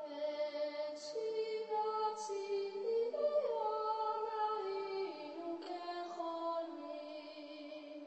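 Music with sustained, layered female singing: long held notes that shift in pitch every second or two.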